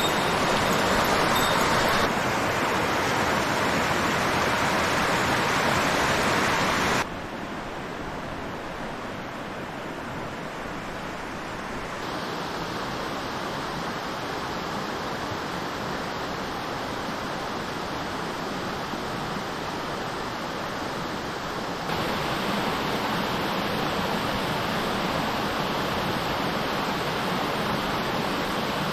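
Steady rush of fast-flowing mountain stream water and falls, with no pitch or rhythm. It is loudest at first, drops sharply about seven seconds in, and grows louder again near the end.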